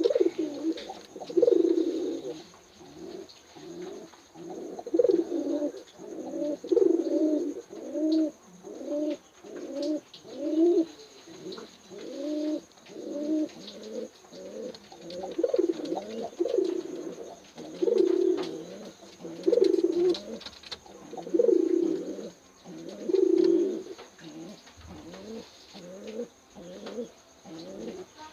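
Doves cooing: a long run of low coos repeated about once or twice a second, with short gaps between phrases.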